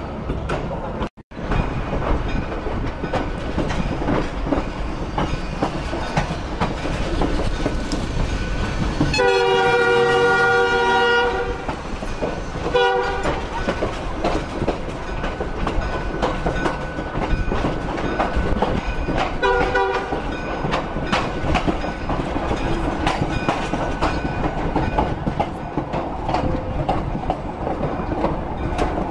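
A train horn gives one long blast about nine seconds in, then a short blast, and another short blast about twenty seconds in. Under it the train rolls slowly along the rails with a steady rumble and clatter.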